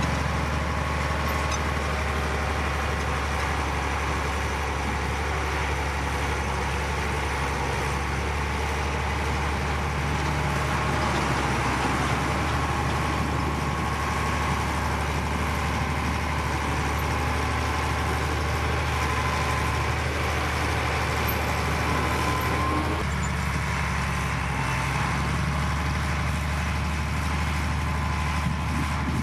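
Heavy diesel engines of earthmoving machinery running steadily, with a low drone. The sound shifts abruptly about three-quarters of the way through.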